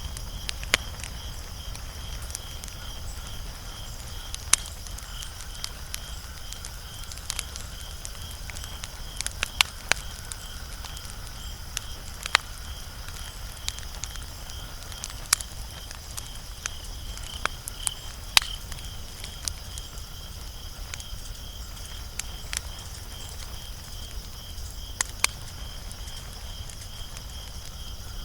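Wood fire crackling, with irregular sharp pops and snaps, over the steady pulsing chirp of crickets at about two chirps a second.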